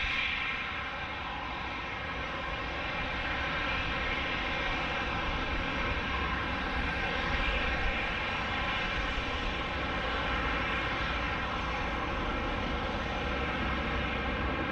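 Airbus A319-111's CFM56 turbofan engines running at low thrust while taxiing: a steady whine of several tones over a low rumble.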